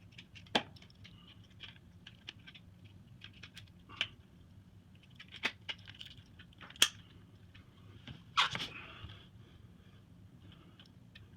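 Scattered clicks and knocks of a washing machine's drain pump and parts being handled, with a longer scraping rustle about eight and a half seconds in.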